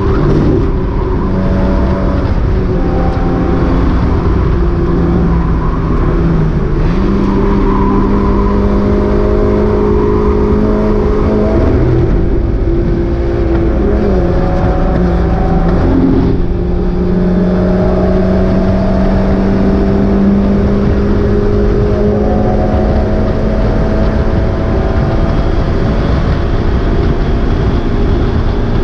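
Mazda MX-5 race car's four-cylinder engine running hard at racing speed, its note rising slowly and dropping sharply twice, about a quarter and half of the way in, as at gear changes.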